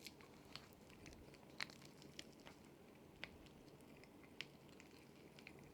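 Strawberry popping candy crackling in the mouth: faint, irregular sharp little pops, roughly one or two a second, as the carbonated candy dissolves.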